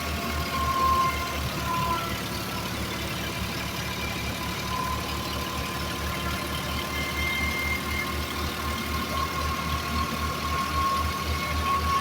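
New Holland tractor's diesel engine idling with a steady, even low throb.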